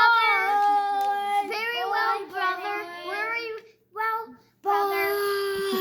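A child singing in a high voice, holding long notes with sliding pitch, with two short breaks near the middle.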